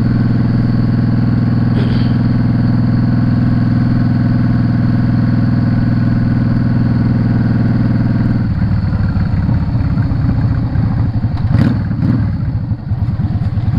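Yamaha Drag Star 650 V-twin engine running at a steady speed, then at about eight and a half seconds the throttle closes and it drops to a lower, uneven beat. A short knock is heard near the end.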